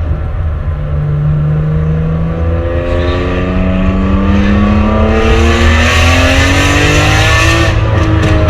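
BMW E46 M3's S54 straight-six, with a decatted Rogue Engineering mid-pipe exhaust, accelerating: the high-pitched exhaust note climbs steadily in pitch and grows harsher for several seconds, then drops suddenly with a gear change near the end.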